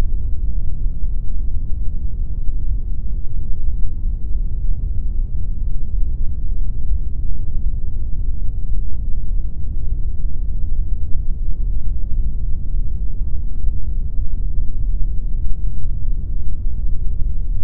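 Continuous pink noise: a steady, unchanging rush with its weight in the deep end, fading off toward the highs.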